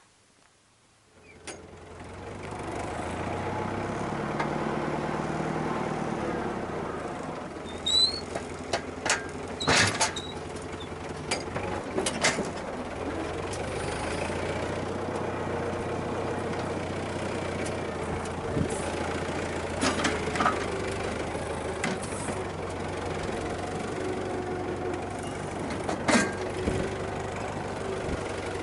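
Tractor diesel engine running steadily, coming up in the first couple of seconds, with several sharp metallic knocks and clanks over it.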